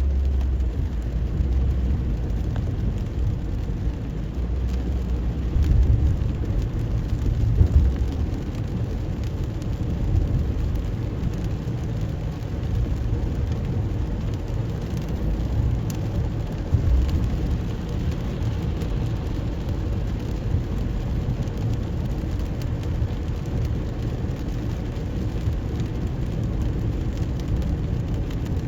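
A car driving through rain on wet roads: a steady low rumble of the car under an even hiss of rain.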